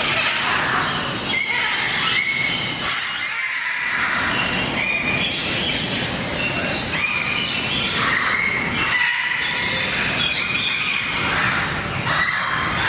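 Many birds calling at once: a dense, loud, overlapping chorus of shrill squawks and short held whistling notes.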